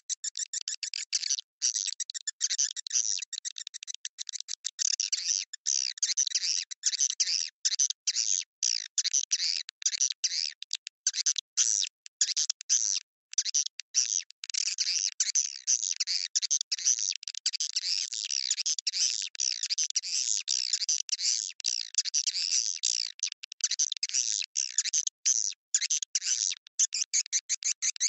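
Swiftlet lure-call recording: dense, rapid, high-pitched twittering chirps of edible-nest swiftlets, broken by brief gaps. It is the kind of call sound played in swiftlet houses to attract the birds to nest.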